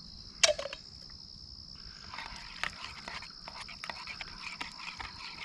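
Canned diced tomatoes and green chilies being emptied into a bowl: a sharp clink of the can against the bowl about half a second in, then a run of wet scraping and squishing from about two seconds on. A steady high insect drone runs underneath.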